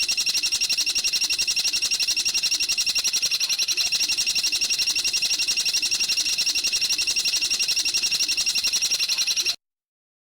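A songbird's fast, even trill of high notes, about ten a second, held without a break and then cut off suddenly near the end.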